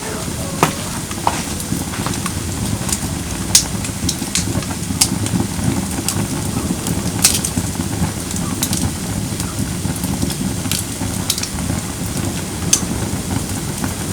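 Firewood burning in a fire pit: a steady low rush of flames with frequent sharp crackles and pops from the burning wood.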